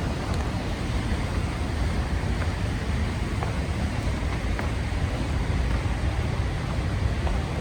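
The Rhine Falls' waterfall rushing: a steady, even wash of falling water, heaviest in the deep end.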